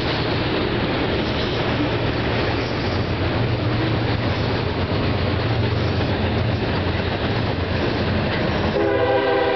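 Freight train of autorack cars rolling over a steel trestle bridge: a loud, steady rumble and rattle of wheels on rail as the last cars pass. Near the end a pitched, buzzing tone comes in over it.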